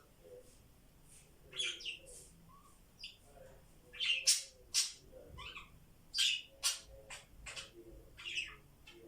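Pet budgerigars chirping and chattering in a series of short, high calls, loudest about halfway through.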